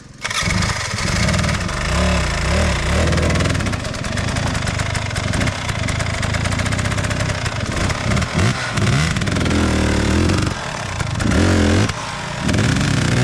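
Dirt bike engine revving in repeated bursts, its pitch climbing and falling again and again, with a short drop in throttle about twelve seconds in.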